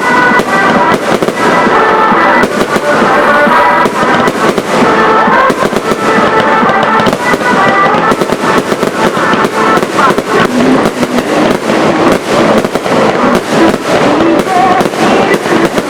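A fireworks display: many shells bursting in quick succession, bang after bang with crackle between. Music plays underneath, most clearly in the first half.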